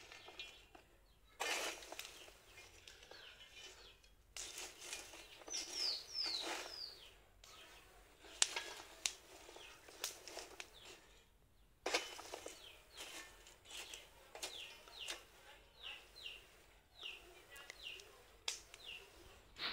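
Small birds chirping, short falling calls in a brief cluster and then a longer run near the end, over intermittent bursts of hissing, rustling noise and a few sharp clicks.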